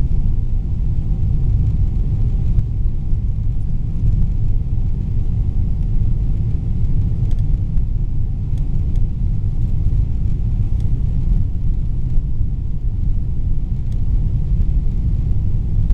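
Steady low rumble of a Boeing 777-300ER cabin in flight, heard from inside: the GE90 engines and the airflow over the fuselage during the approach.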